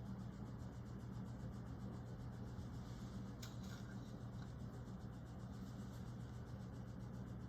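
Low steady hum of room tone, with one short faint click about three and a half seconds in.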